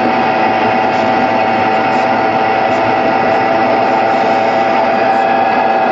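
A steady electronic buzzing hum with a held tone, over the road noise inside a moving car. The hum cuts off near the end.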